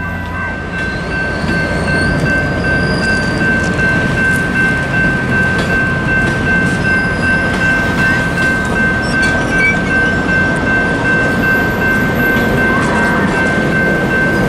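Passenger railcars rolling slowly past: a steady rumble of wheels on rail, with a steady high-pitched tone ringing over it.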